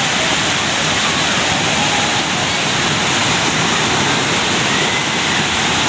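Swollen river in flood, its fast, heavy water rushing in a loud, steady, unbroken noise.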